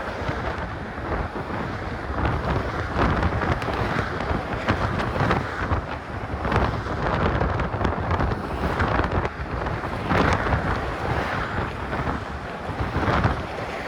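Wind buffeting a phone's microphone in uneven gusts. The microphone is partly covered by a sock, which muffles the wind.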